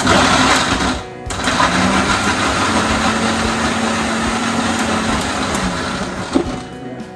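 Electric mixer grinder (mixie) running with tomatoes in the jar, grinding them to a fine paste. It runs briefly, stops for a moment about a second in, then runs for about five seconds more with a steady motor hum before winding down near the end.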